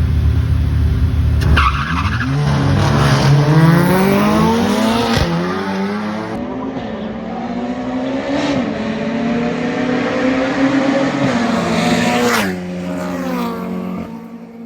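Two cars racing side by side down a drag strip at full throttle, engines climbing in pitch through several gear changes, with the sound dropping away about twelve seconds in.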